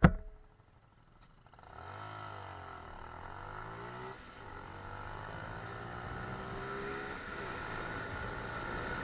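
Motorcycle engine pulling away under acceleration, its pitch climbing, dropping at about four seconds as it shifts gear, then climbing again, over steady riding noise. A sharp knock at the very start.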